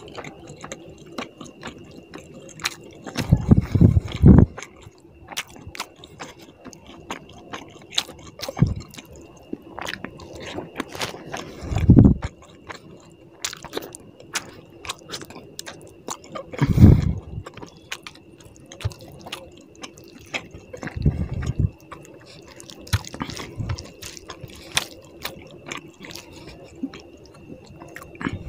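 Close-up eating of tilapia fish curry and rice by hand: wet chewing, squishing and many small lip-smacking clicks, with a few louder low thumps every several seconds.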